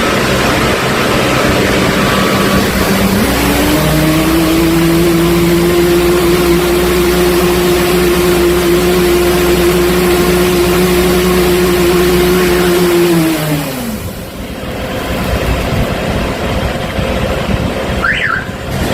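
High-pressure drain jetter running: a steady hiss of water forced through a 1/4-inch Enz vibrating nozzle, with the machine's engine note coming up about three seconds in, holding steady, and dropping away after about thirteen seconds.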